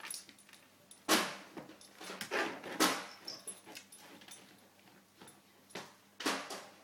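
Staffordshire bull terrier puppy making short, noisy sounds, a few separate bursts with pauses between them.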